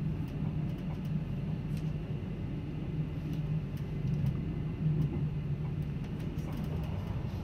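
Steady low rumble of a Rhaetian Railway passenger train running on the Albula line, heard from inside the carriage, with a few faint ticks over it.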